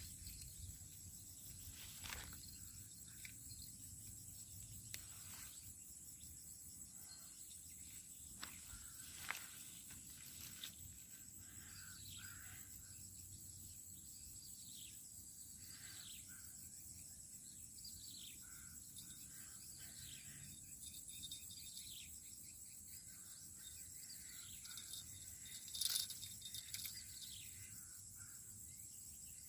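Steady high-pitched insect drone of crickets or cicadas, with a run of short falling bird calls from about twelve seconds in and a few soft clicks.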